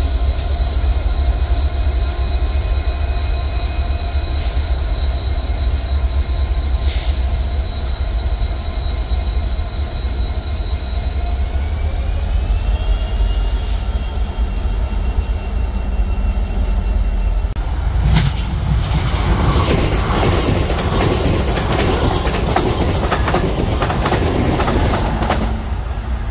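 BNSF freight train rolling on the rails with a steady low rumble and thin high-pitched wheel squeal that rises in pitch about halfway through. Then a passenger train clatters over the rail joints in a rapid run of knocks and rumble as it pulls away.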